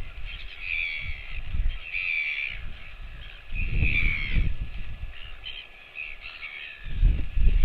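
Crow cawing: a series of harsh calls, each about half a second long, spaced a second or two apart and fading toward the end. Low rumbling thumps run underneath.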